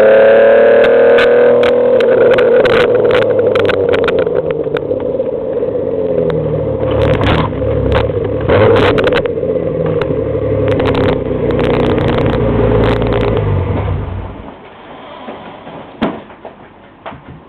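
Alfa Romeo GTV6's V6 engine through an Ansa exhaust, rising in pitch as it accelerates and then running hard at steady revs, with many sharp clicks and rattles over it. About three quarters of the way through the engine sound drops away suddenly, leaving quiet with a couple of knocks.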